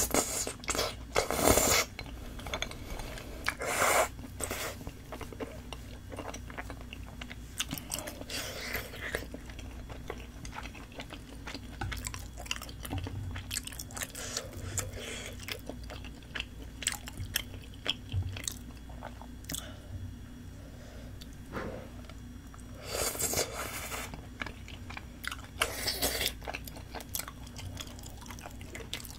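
A person chewing mouthfuls of spicy tteokbokki, chewy rice cakes in thick red sauce, with wet, sticky mouth sounds. Louder bursts come every few seconds, bunched near the start and again near the end.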